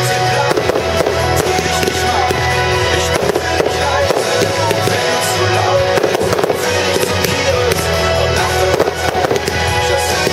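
Aerial firework shells bursting and crackling again and again over loud music, as in a fireworks display set to music.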